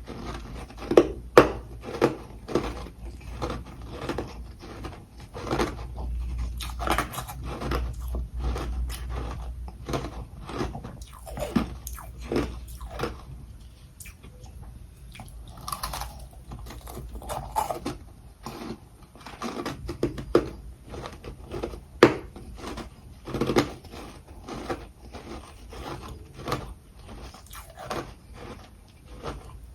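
Close-miked crunching of ice being bitten and chewed: repeated crisp crunches, a few a second, with short pauses between bites.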